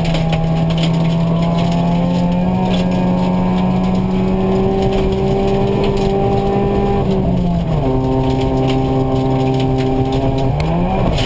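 Opel Astra GSi rally car engine heard from inside the cabin, pulling hard at high revs. The note climbs slowly and holds, falls away at about seven seconds, then makes a quick rise and fall near the end as the driver works the gear lever. Tyre and gravel noise run underneath, with many small ticks of stones hitting the car.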